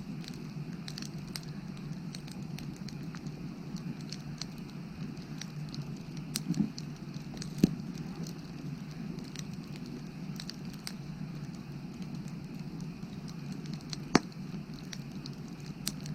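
Firewood burning: a steady low rush of flame with scattered crackles and a few sharper pops, the loudest about halfway through and again near the end.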